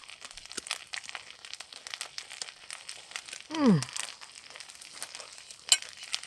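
Small wood fire crackling in a titanium twig stove, with irregular snaps and pops. About halfway through, a man's voice gives one short sound falling in pitch, and a sharper snap comes near the end.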